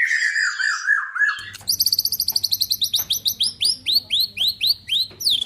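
White-rumped shama (murai batu) singing: varied whistled phrases, then, after an abrupt change of recording about a second and a half in, a fast run of sharp rising chirps, about four to five a second, over a low steady electrical hum.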